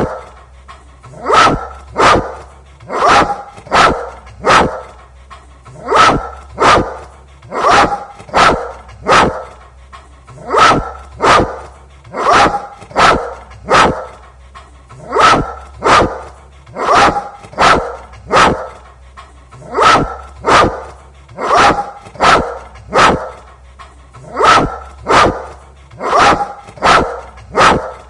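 A single dog barking over and over in short sharp barks, mostly in quick pairs or threes, with an even, repeating rhythm about every one and a half to two seconds.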